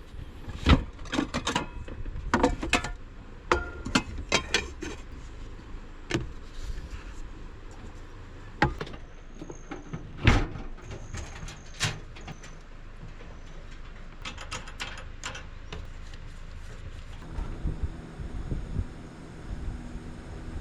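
Scattered knocks, clicks and clatters of gear being handled, with a couple of short high squeaks about nine and eleven seconds in. A steady low hum starts near the end.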